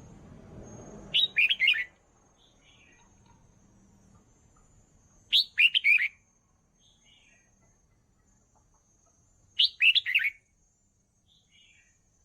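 Red-whiskered bulbul singing three short warbled song phrases, about four seconds apart, each followed by a few faint softer notes.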